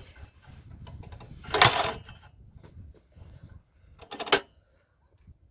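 Cold UD-15 engine of an MTZ-05 walk-behind tractor being cranked over twice, each stroke a short, loud mechanical burst, without firing.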